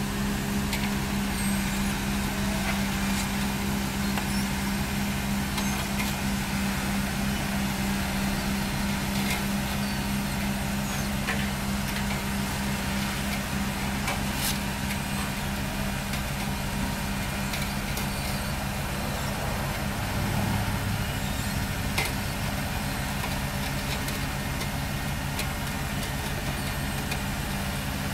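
Engine of heavy road-paving machinery running steadily, a constant low hum. The low tones shift briefly about twenty seconds in, and a sharp click follows shortly after.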